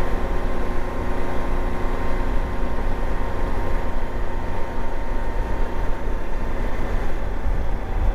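Motorcycle engine running steadily at cruising speed, under a constant rush of wind and road noise.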